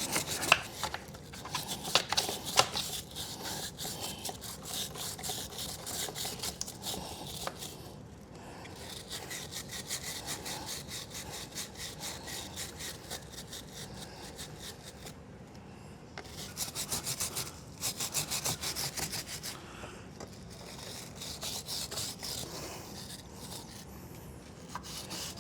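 Stiff bristle chain brush scrubbing a motorcycle drive chain wet with chain cleaner, in rapid back-and-forth strokes with a few short pauses. This agitates the dirt and old oil off the chain.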